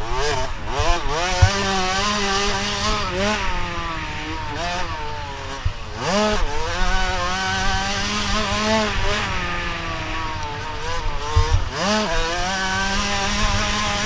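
Motocross bike engines running and revving, the pitch rising and falling with the throttle. It drops sharply and climbs again about six seconds in and again near the end, with a second, steadier engine note underneath.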